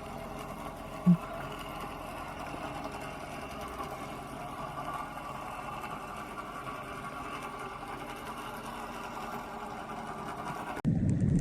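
A steady mechanical-sounding hum made of several held tones, with one short low blip about a second in.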